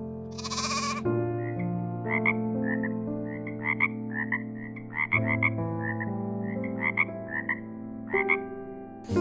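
Frogs croaking in a run of short, irregular calls, several a second, over soft background music with slow, sustained chords.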